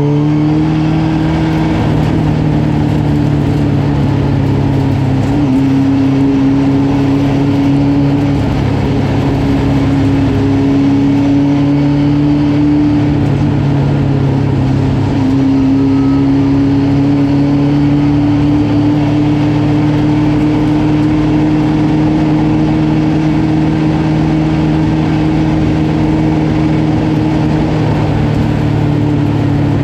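Honda-powered race truck's engine revving up, then running loud at a nearly constant pitch, with only small changes in pitch.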